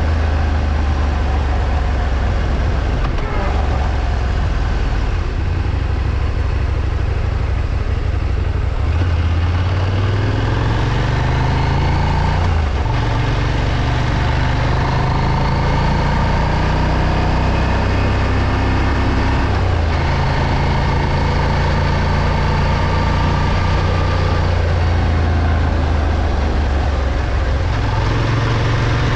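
Moto Morini X-Cape 650's parallel-twin engine running under way. Its pitch climbs as it accelerates and drops back at gear changes about twelve and twenty seconds in, over steady road and wind rush.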